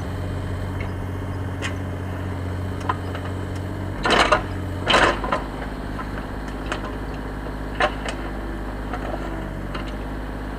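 Loader engine running steadily while its bucket digs for buried railway ties. The engine note shifts about four seconds in, with two short scraping clatters about four and five seconds in and a few light knocks.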